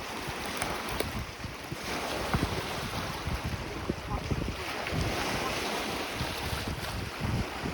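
Wind gusting on the microphone over the steady wash of lake waves against the shore rocks.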